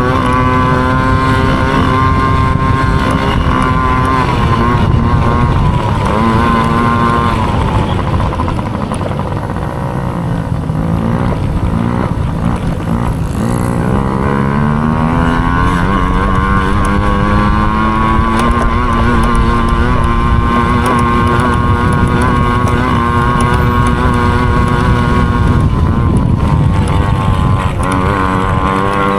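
Small dirt bike engine running hard at steady high revs. Around ten seconds in the pitch drops as it slows, then climbs back up over several seconds before holding steady again.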